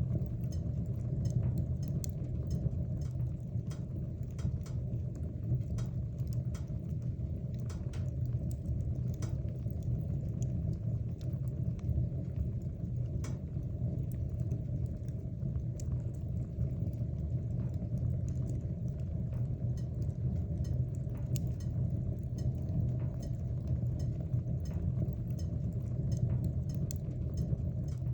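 Wood fire burning in a fireplace: a steady low roar of the flames with many small scattered crackles and pops.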